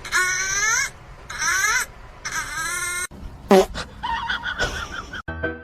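An animal calling several times in a row, drawn-out calls that bend upward in pitch. Piano music starts near the end.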